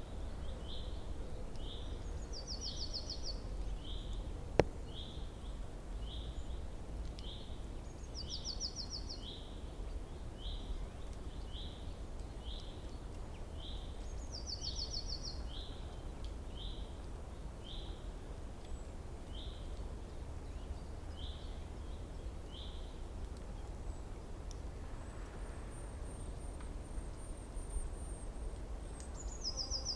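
Wild songbirds calling: a short rising chirp repeated about once a second, with a higher buzzy trill about every six seconds, over a steady low outdoor rumble. One sharp click sounds a few seconds in.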